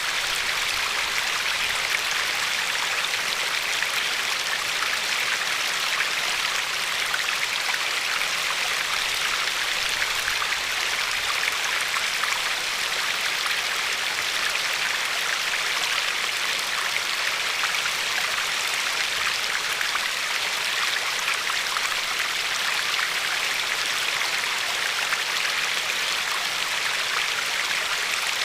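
Glacier-fed river flowing and lapping over a pebble shore: a steady, even rush of water with fine splashing, unchanging throughout.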